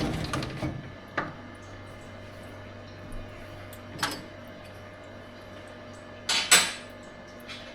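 Workshop sounds after a machine stops: its noise dies away in the first second, then a few separate knocks and clanks of handled metal over a steady low hum. The loudest is a double knock about six and a half seconds in.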